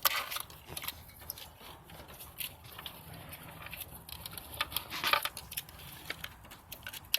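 Hands working plastic wiring-harness connectors and loose wires on an engine sensor: scattered small clicks and rattles, with a louder cluster of clicks about five seconds in.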